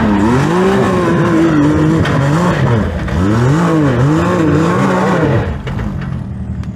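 Can-Am Maverick X3 side-by-side's three-cylinder turbo engine revving hard and unevenly on a steep climb, the pitch swinging up and down with the throttle over and over. About five and a half seconds in it drops back to a lower, steady idle.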